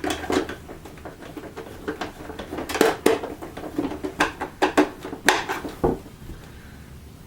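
Irregular clicks, knocks and clatter of plastic vacuum-cleaner housing parts and screws being handled and fitted during reassembly, with a heavier knock near six seconds.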